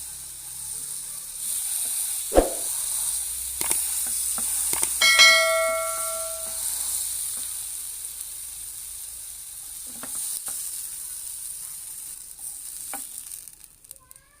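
Ribs sizzling as they cook, a steady hiss. A sharp knock comes about two seconds in, and a bright metallic ring sounds briefly about five seconds in; the sizzle fades away at the end.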